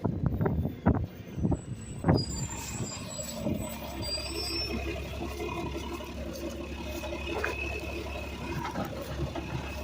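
Garbage truck running steadily, with a few sharp knocks and clatters in the first three seconds.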